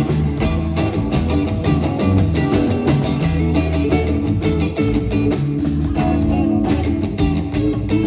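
Live band playing an instrumental blues-rock passage, guitar to the fore over a steady beat.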